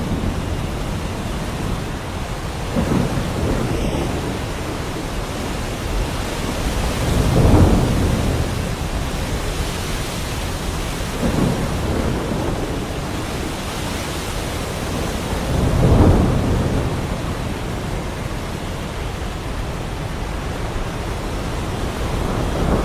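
Heavy rain falling steadily, with thunder rumbling and swelling several times, loudest about a third of the way in and again about two-thirds in.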